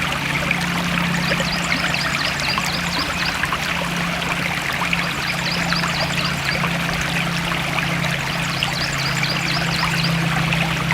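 Stream water flowing and trickling steadily, with runs of short, high, repeated chirps over it.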